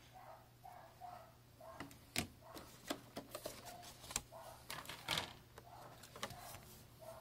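Scattered sharp clicks and clatter, typical of plastic packaging and a small device being handled. Behind them, a faint short whine repeats about twice a second.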